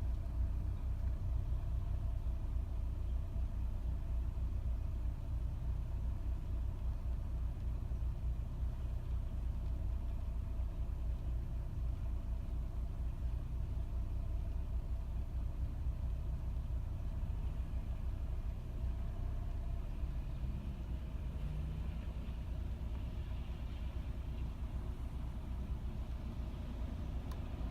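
2007 Nissan Altima engine idling roughly after a cold start, a steady low rumble.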